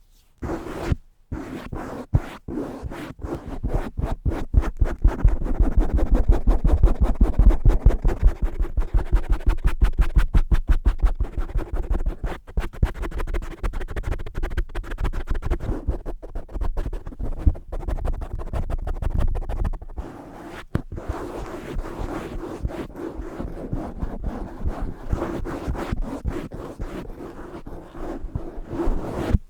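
Fast, aggressive tapping and scratching by hand on the cover of a Blue Yeti microphone, close to the capsule, with rapid strokes many times a second over a deep thudding. The low thud eases about twenty seconds in, leaving lighter, scratchier strokes.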